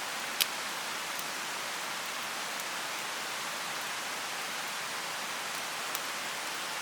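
Steady rushing of a mountain stream, with a few sharp pops from a wood bonfire. The loudest pop comes about half a second in and a smaller one near six seconds.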